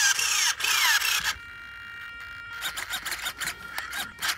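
Recoil pull-starter of an HPI Baja 5B's small two-stroke petrol engine being yanked in quick pulls during a cold start, each pull a sweeping whir. After about a second it drops quieter, leaving a faint steady whine and scattered clicks.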